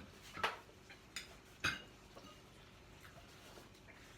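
A few light clinks of cutlery against plates, three short ones in the first two seconds, then only faint room noise.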